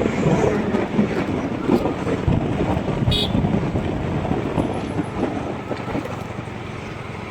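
Road vehicle on the move: a rumbling mix of engine and road noise with wind buffeting the microphone, slowly easing off. A brief high tone sounds about three seconds in.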